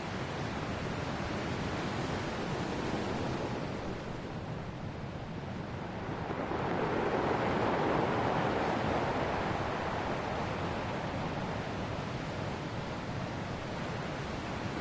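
Ocean waves washing on a shore in a continuous wash of surf, with one wave swelling louder about halfway through and then easing back.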